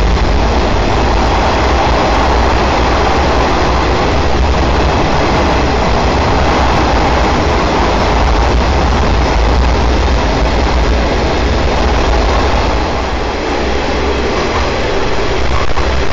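Loud, steady running noise of a diesel railcar train, heard from aboard an open-air trolley car: a deep low rumble with a wide roar of wheels on rail, echoing as the train runs through a tunnel.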